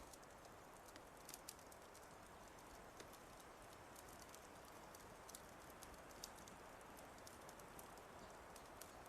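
Wood fire crackling faintly, with scattered irregular pops over a steady soft noise bed.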